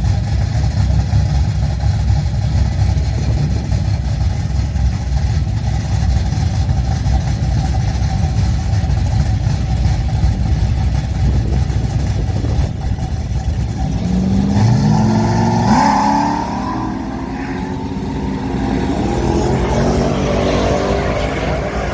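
Drag-racing car engine running with a loud low rumble, then revving with a rising pitch about two-thirds of the way through.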